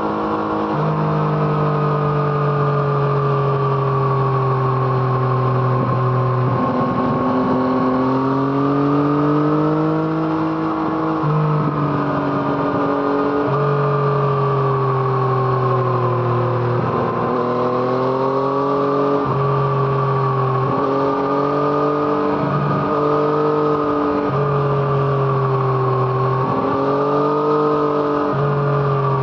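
Yamaha MT-09's 847 cc three-cylinder engine through an Arrow Thunder aftermarket exhaust, ridden under load. The engine note climbs and falls with the throttle, and its pitch jumps every few seconds as the rider shifts gears up and down, with short sharp drops where the throttle is closed.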